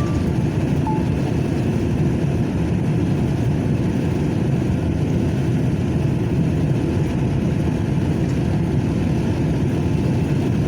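Truck engine running with a steady low drone, with a couple of short electronic beeps right at the start.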